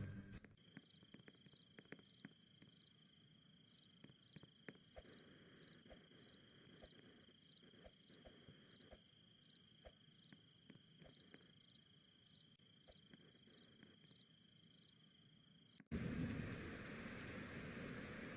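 Night insects: a steady high trill with a sharper chirp repeating about twice a second. It cuts off suddenly near the end into steady rain.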